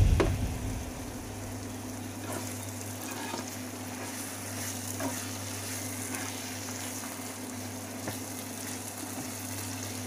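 Grated coconut and chilli mixture sizzling as it is stir-fried in a frying pan, with a few faint scrapes of a nylon spatula against the pan. A steady low hum runs underneath.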